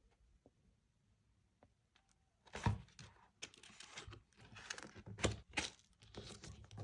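Scrapbooking paper being handled close to the microphone: a few faint ticks, then from about two and a half seconds in, a busy run of crinkling, rustling and sharp taps.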